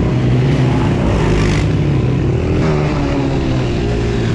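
Small off-road engines, dirt bikes or quads, running steadily at the track, their pitch shifting a little with the throttle.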